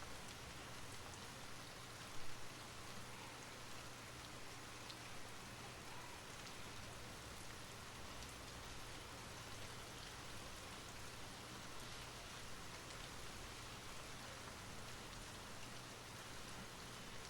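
Steady rain falling on a surface, an even hiss with scattered drops tapping; one louder drop lands about two seconds in.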